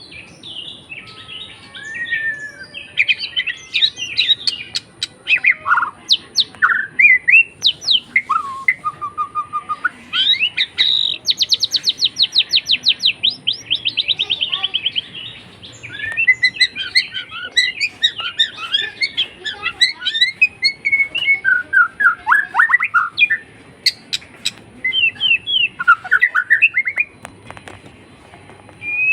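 A tame pet songbird singing a long, varied song of chirps, whistles and squawky notes, with a fast run of rapidly repeated notes about eleven seconds in.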